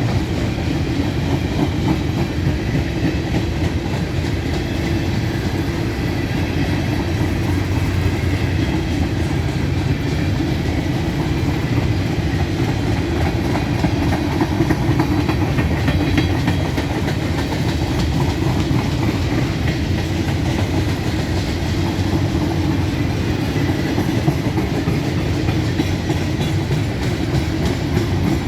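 Empty grain train cars rolling past, their wheels running steadily on the rails with a continuous rumble and clickety-clack over the joints.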